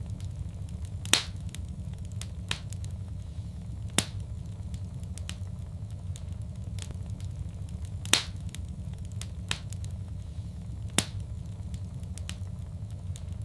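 Wood fire crackling in a fireplace: a steady low rumble of flame with a scatter of small ticks and about six sharp, louder pops spaced a second or more apart.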